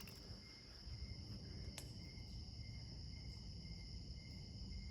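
Faint steady high-pitched chirring of crickets, with a low rumble underneath and one faint click about two seconds in.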